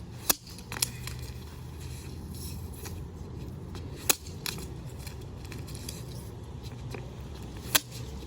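Sharp plastic clicks and clinks from the broken parts of a smashed hair dryer being handled and pulled apart, a few louder snaps spaced seconds apart over a low steady hum.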